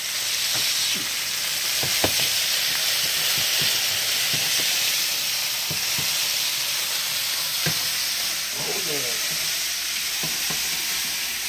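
Steady sizzle of chicken breasts frying in oil in a cast iron skillet, with scattered clicks and scrapes of a spatula against a pan as diced potatoes are stirred.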